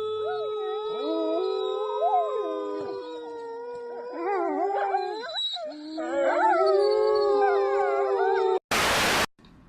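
A dog howling in wavering, gliding pitches over a steady held musical note that sounds throughout. Near the end the howl and note stop and a short loud burst of hiss follows.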